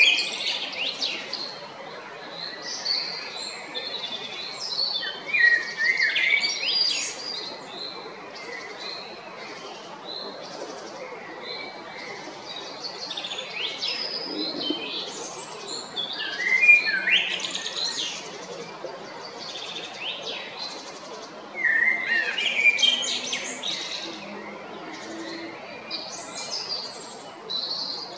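Male common blackbird singing: separate song phrases of quick, changing notes every few seconds, with short pauses between them.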